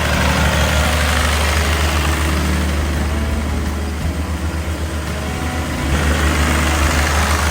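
Biogas-fuelled electric generator engine running steadily and loud, a deep low hum. It dips a little midway and swells again about six seconds in.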